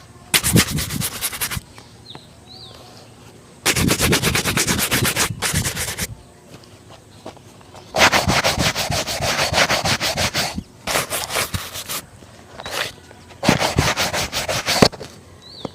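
A shoe being brushed or buffed in quick back-and-forth strokes, in five bursts of a second or two each with short pauses between them.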